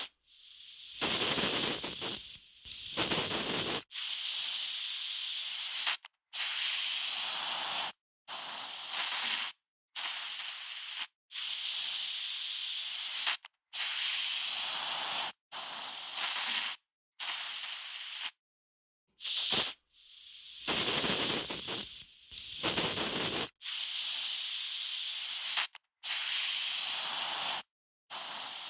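Aerosol spray can spraying in short bursts, about a dozen sprays of one to two seconds each, with brief silent gaps between them. The hiss is mostly high-pitched, and a few bursts sound fuller and lower.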